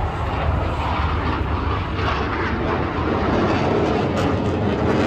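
Airplane engine noise from an aircraft flying overhead: a steady rushing drone.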